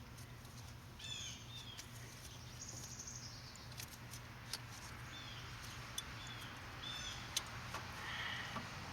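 Small birds chirping in short repeated calls, with a few sharp clicks and taps in between.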